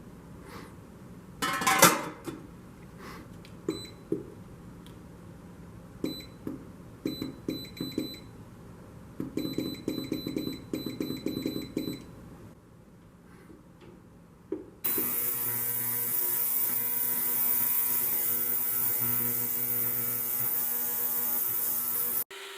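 Small parts and tools clicking and clinking, then a small electric motor starts and runs steadily for about seven seconds before cutting off abruptly.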